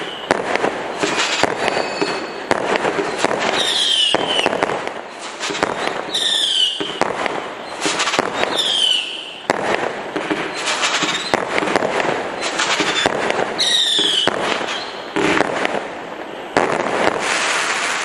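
Kimbolton 'Screeching Devils' 110-shot firework cake firing shot after shot. Several of the shots carry silver whistling tails, heard as short whistles that fall in pitch, with the display ending in a crackling finale.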